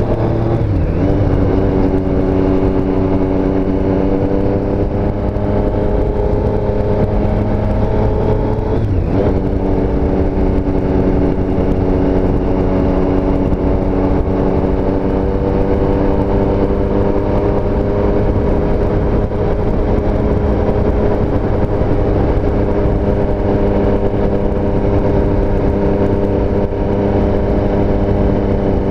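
A 2017 Triumph Street Triple S's 765 cc inline-three engine pulling under way. Its pitch climbs, drops at an upshift about a second in and again near nine seconds, then holds fairly steady while cruising.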